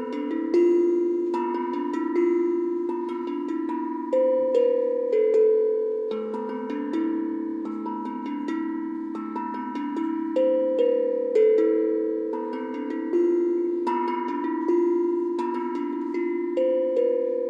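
Improvised melody on a bell-like tuned percussion instrument: single struck notes, a few each second, ringing on and overlapping one another.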